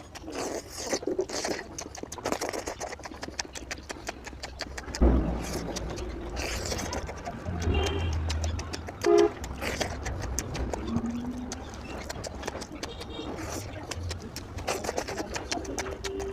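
Close-miked eating: irregular wet chewing and mouth-smacking clicks from someone taking big bites of mutton curry and rice, with a thump about five seconds in and a few brief pitched sounds.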